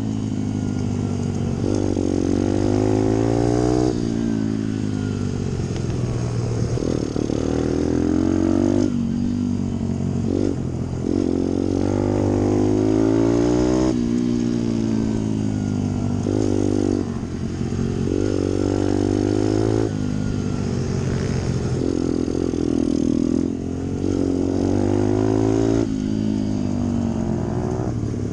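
Pit bike's small single-cylinder four-stroke engine under hard throttle, its pitch climbing and then dropping again about every two to four seconds as the rider accelerates and backs off through a lap.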